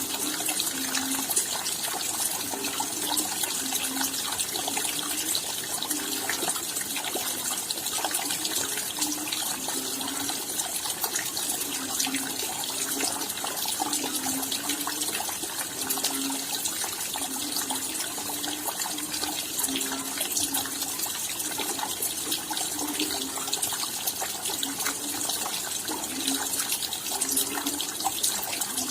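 Steady rain falling, a dense hiss of many small drops ticking, with an uneven low gurgle of running water underneath.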